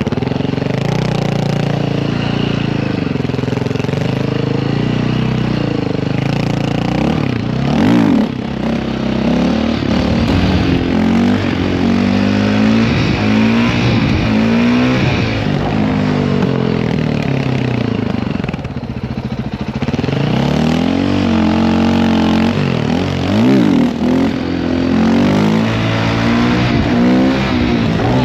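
Dirt bike engine running close by, revving up and down over and over, with sharp rev peaks about eight seconds in and again near the end, and a brief drop in level a little after halfway.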